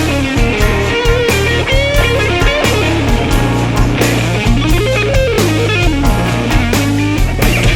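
Blues-rock band playing: a lead electric guitar solos with string bends and quick runs over bass guitar and a steady drum beat.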